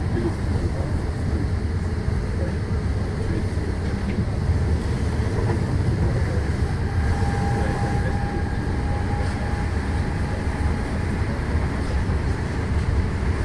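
Passenger train running along the track: a steady low rumble, with a thin high tone held for a couple of seconds in the middle.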